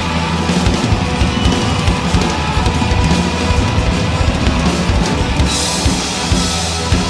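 Heavy rock band playing live in an instrumental passage: a drum kit struck hard and fast, with bass drum, under sustained low notes from the band. A wash of high sound comes in about five and a half seconds in.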